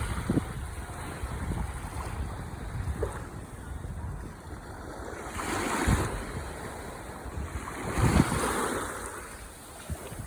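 Ocean waves washing onto the shore, with two waves breaking louder, one about halfway through and one near the end. Wind rumbles on the microphone underneath.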